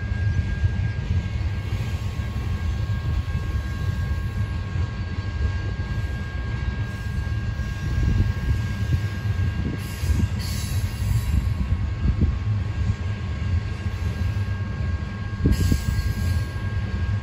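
A train rolling past with a heavy, steady low rumble from the railroad cars. A few knocks and short high hisses come through about halfway in and again near the end, over two faint steady high whines.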